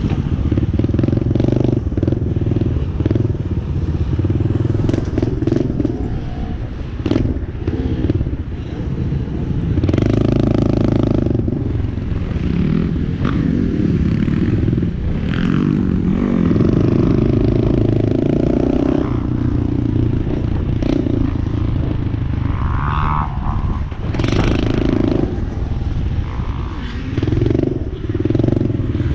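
Dirt bike engine running hard while being ridden, its revs rising and falling over and over as the throttle opens and closes, with clattering and scraping mixed in.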